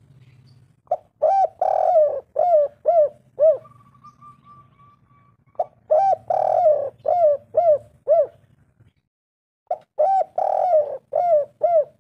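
Spotted dove cooing its song three times, a phrase about every four to five seconds. Each phrase has a longer, fuller coo near the start followed by a run of short, evenly spaced coos.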